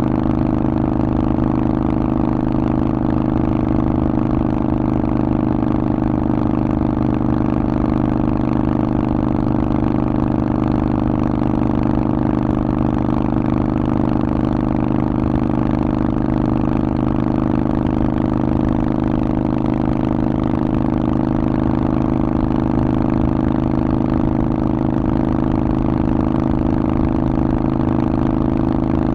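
Harley-Davidson Forty-Eight's air-cooled 1200 cc V-twin running through a Vance & Hines aftermarket exhaust, holding a steady engine speed with no revving.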